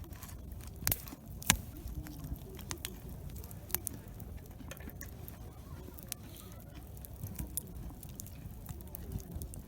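Wood campfire crackling, with scattered sharp pops at irregular intervals, the loudest about one and a half seconds in, over a low steady rumble.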